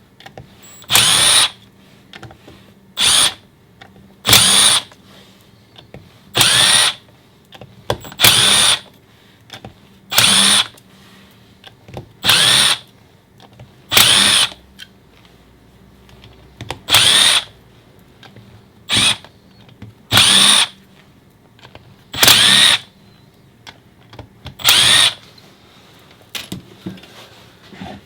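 A cordless power driver or drill runs in about a dozen short bursts, each under a second and roughly two seconds apart, its motor pitch rising at the start of each burst. This is typical of bolts being run out one after another while a transmission is taken apart.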